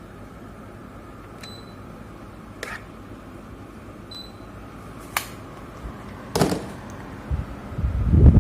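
Split air conditioner running with a steady low hum and hiss. Several sharp clicks sound, two of them with a short high beep, like the unit acknowledging a remote command. Near the end a loud rushing noise builds up.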